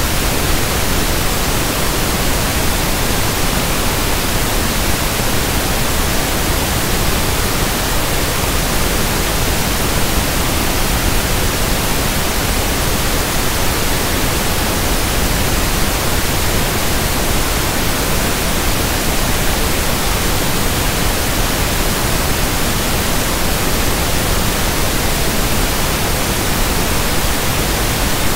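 Steady synthetic pink noise: a loud, even hiss spread across the whole range, unchanging throughout.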